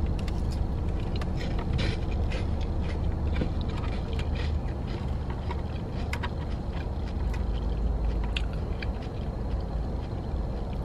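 Chewing on a mouthful of salad with croutons, with short crisp crunches and fork clicks scattered irregularly through, over the car's steady low hum.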